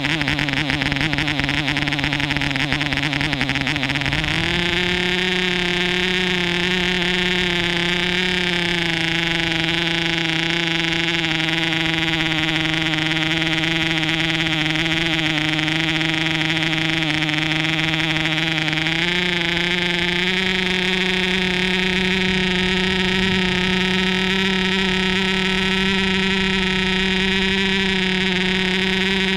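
MARZ 2.5 cc model airplane diesel engine running steadily at high speed with a loud, even buzz. Its pitch steps up about four seconds in and again a little past halfway, then holds.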